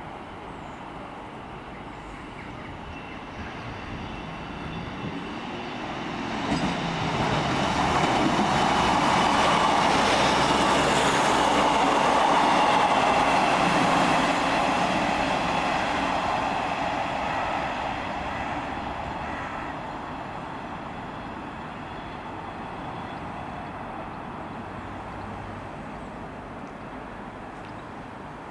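A train passing through a station on a main line: it builds up over several seconds, runs loud for about six seconds, then fades away.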